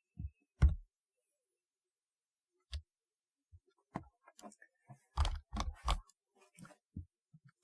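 Typewriter-style keyboard keystrokes, sparse and uneven: a loud keystroke under a second in, a lone one near the middle, then a quicker run of several keystrokes later on.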